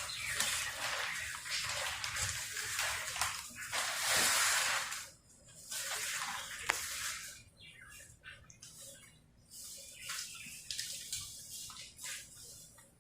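Newspaper being crumpled and stuffed under a fireplace grate: steady rustling for about five seconds, then quieter, scattered rustles.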